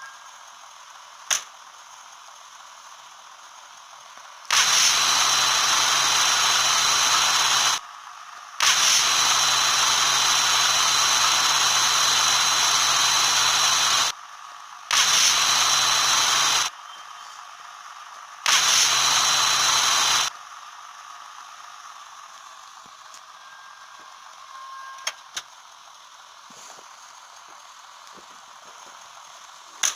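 A motor-driven appliance switched on four times, giving a loud, steady hiss with a low hum under it; each run lasts from under two to about five seconds and starts and stops abruptly.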